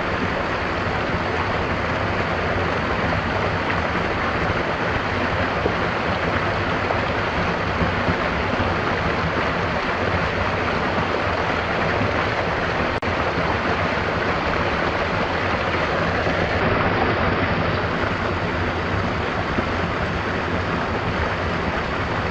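A stream's water rushing steadily, an even unbroken flowing sound.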